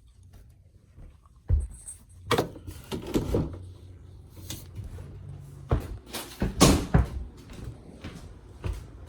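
Irregular knocks, bumps and rattles of objects being handled, the loudest cluster about six to seven seconds in, over a faint low hum.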